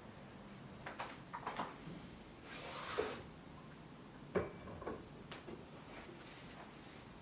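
Light clicks and knocks of household objects being handled, with a short swish that rises into a knock about three seconds in and a sharper knock a second and a half later.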